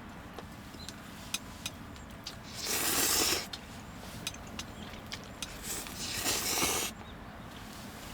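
Wood fire crackling with scattered sharp pops, with two louder rushes of noise about a second long, one a third of the way in and one near the end.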